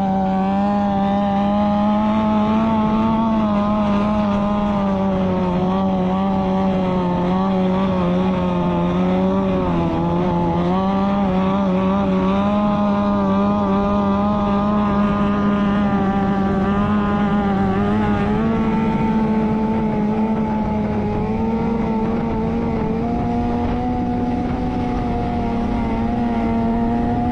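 Motorcycle engine running at a steady, fairly high speed, its pitch dipping briefly about ten seconds in and rising a little near the end.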